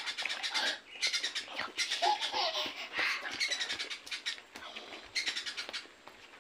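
Close-miked, wet open-mouthed chewing and lip smacking on a mouthful of rice and meat. It comes as runs of rapid smacks and clicks with short pauses between them.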